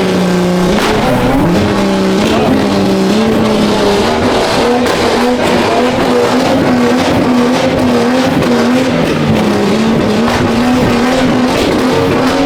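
Car engine held at high revs, its pitch wavering up and down in small steps, over a layer of tyre and street noise.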